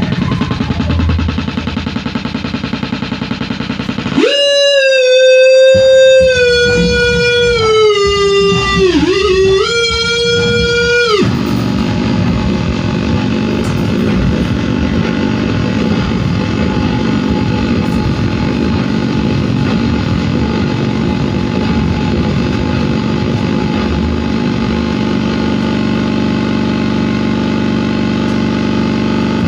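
Live noise music: dense, distorted noise. About four seconds in, a loud held pitched tone cuts in, wavers and dips in pitch, then cuts off suddenly about eleven seconds in.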